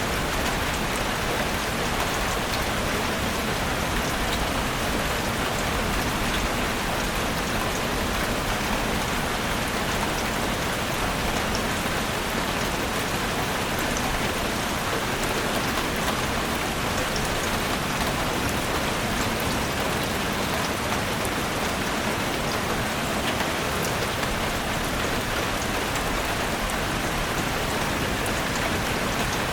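Steady rain falling on a forest, an even hiss of drops with scattered faint pattering.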